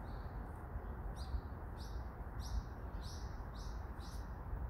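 A bird chirping a run of about six short, evenly spaced calls, roughly one every half second, over a steady low background rumble.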